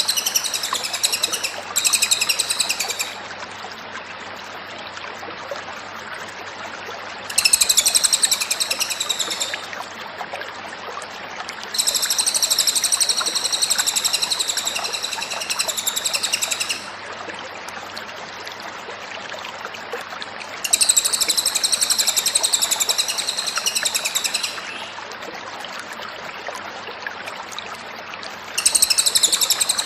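A Cililin songbird singing in bouts of a few seconds each, a high, stacked, continuous song, about six bouts with short pauses between. A steady hiss runs underneath.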